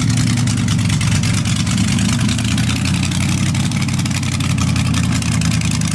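Rat rod's engine idling loudly and steadily with a rapid, choppy exhaust pulse.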